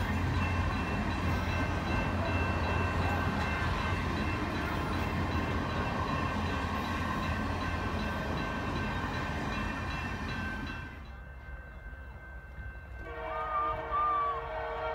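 Passenger cars of the Canadian Pacific Holiday Train rumbling steadily over the rails as they pass, the sound dying away about eleven seconds in. Near the end a locomotive horn sounds a steady chord of several notes.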